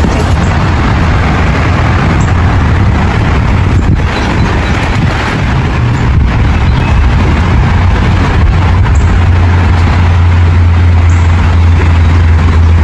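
Small waterfall: a loud, steady rush of falling water with a deep low rumble underneath.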